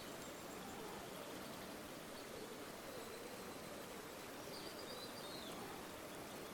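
River water flowing, a steady rushing. About four and a half seconds in, a faint short bird call of a few quick high notes.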